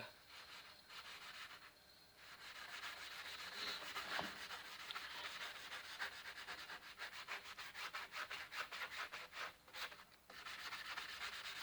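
Hand sanding a forged steel knife blade: rapid, rhythmic back-and-forth rubbing strokes, with short pauses about two seconds in and near the end.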